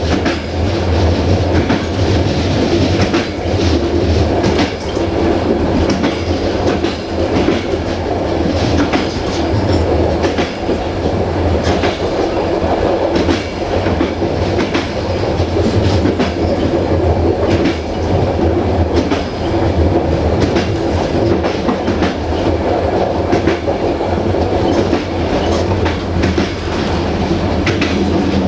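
A moving train heard from on board: a steady rumble with a low hum, and the wheels clacking over rail joints at irregular intervals.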